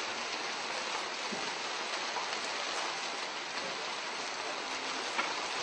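Heavy artificial rain pouring down steadily on a film set, a dense, even hiss of falling water.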